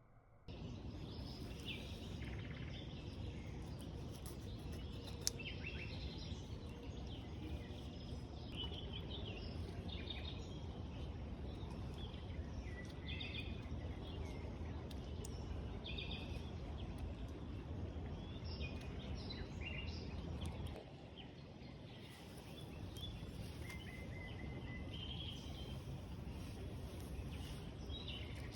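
Wild birds chirping and calling again and again over a steady low rushing background noise, which drops slightly about three quarters of the way through.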